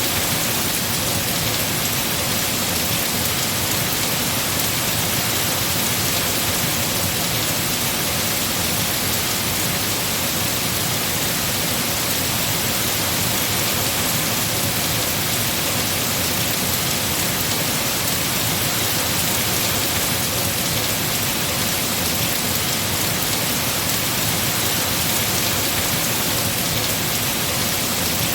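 Heavy rain falling steadily on tree foliage, an even, unbroken hiss.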